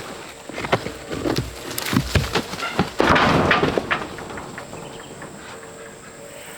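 Stones knocking against each other several times at irregular moments, then about three seconds in a louder rushing, splash-like burst that fades over about a second, as rocks are shifted in a stream bed.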